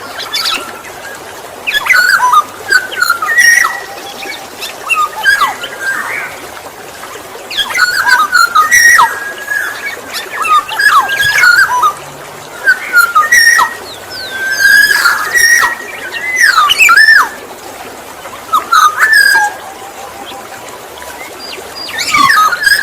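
Black-naped oriole singing: loud whistled phrases with quick sliding notes, repeated in short bouts every two to three seconds over a steady hiss.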